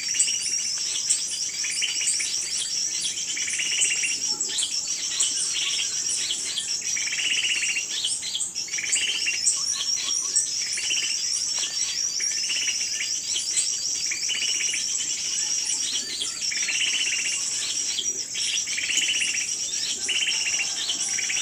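Small birds chirping and twittering continuously, with short chirp phrases repeating every second or two, over a steady high insect buzz.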